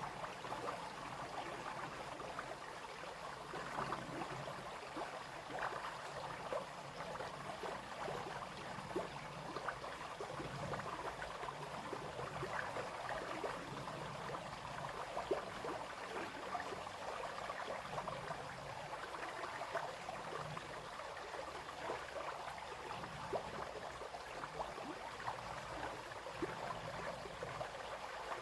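Small brook babbling over stones: a steady, even splashing and gurgling of running water, dotted with many small quick droplet splashes.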